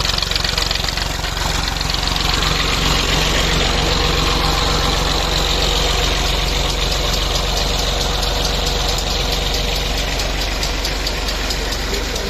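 Tractor diesel engine running steadily under load, driving a new tubewell pump.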